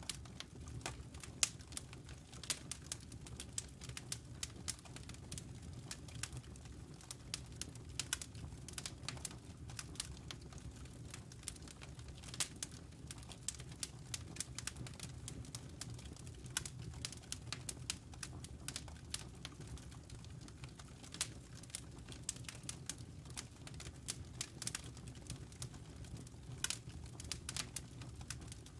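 Campfire embers and burning wood crackling: irregular sharp pops and snaps, several a second, over a steady low rumble.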